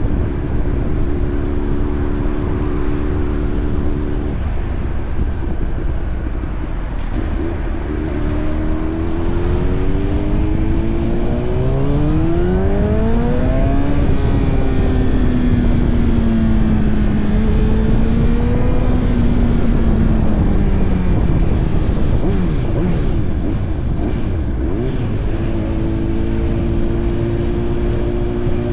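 Honda CBR1000RR Fireblade's inline-four engine under way with heavy wind rumble: a steady note at first, then the engine note climbs sharply as the bike accelerates hard, eases down over several seconds, and settles back to a steady cruise near the end.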